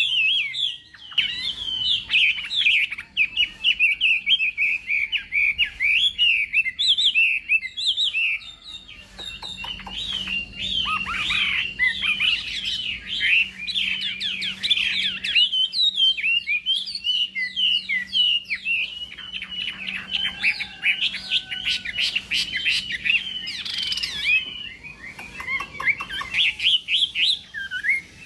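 Chinese hwamei (hoạ mi) singing a long, rapid, varied song of whistled phrases, with short breaks about a third of the way in and near the end.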